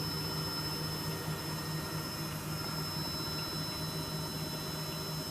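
Electrolux W455H commercial washing machine running a Warm 60 wash: a steady low machine hum with a slight pulse, and a thin steady high whine above it.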